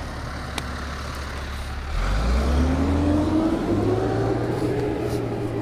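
Motor vehicle engine pulling away close by: a low rumble that grows louder about two seconds in, with a rising hum that levels off. A single sharp click comes shortly after the start.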